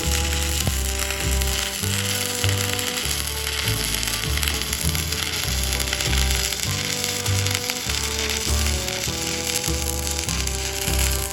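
Steady hiss of a stick (arc) welding arc as a rod burns along a steel plate-to-angle-iron joint, over background music with a regular bass beat.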